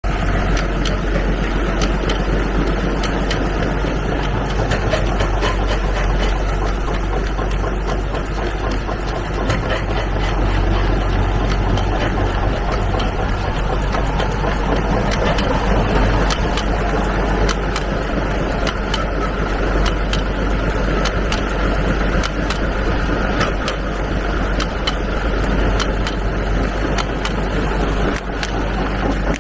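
A 1920s rock crusher running, belt-driven by a 1949 Oliver six-cylinder tractor engine: a steady, loud engine and machinery drone with frequent sharp clacks of rock being crushed.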